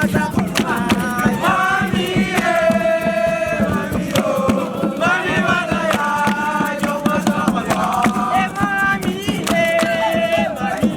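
A group of voices chanting a campfire song, with long held notes, over sharp percussive beats.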